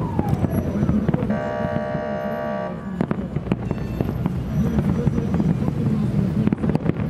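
Fireworks display: repeated bangs and crackles of bursting shells over the chatter of a crowd of onlookers. About a second in, a steady horn-like tone sounds once for about a second and a half.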